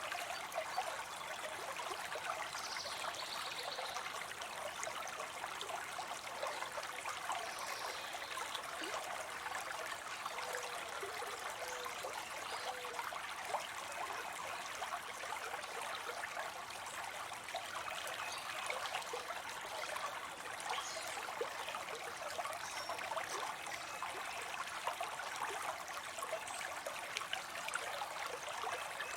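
Water spilling into a pond: a steady splashing trickle of falling water.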